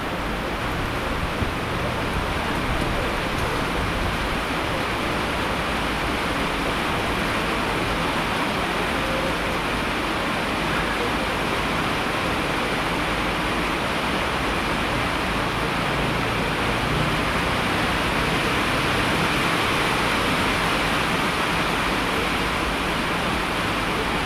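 Steady rain: an even rushing hiss with no separate drops or gusts standing out.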